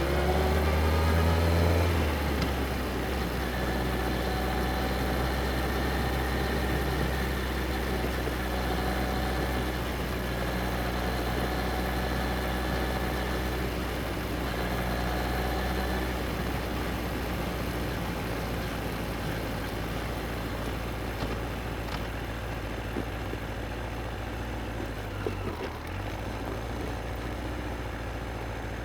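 Yamaha XJR1300's inline-four engine revving up, its pitch rising over the first two seconds, then running steadily while the motorcycle rides, over a constant rush of road and wind noise.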